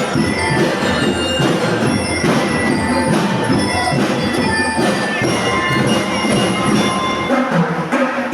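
Parade band music: drums with bright, ringing bell notes over them, played steadily throughout.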